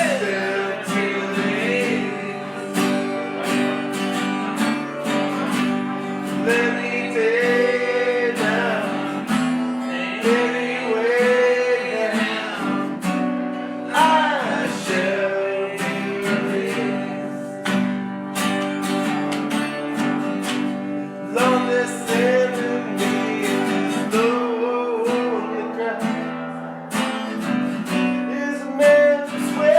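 Acoustic guitar strumming chords, with a wavering melody line over it and no sung words.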